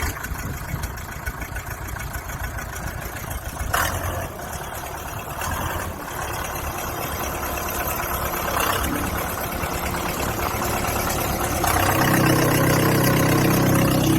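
Backhoe engine running, growing gradually louder, with a couple of short knocks. About twelve seconds in, a strong steady drone comes in as the engine works harder.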